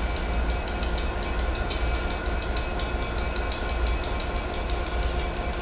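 Diesel train running in the station with a steady low engine rumble, with sharp clicks over it.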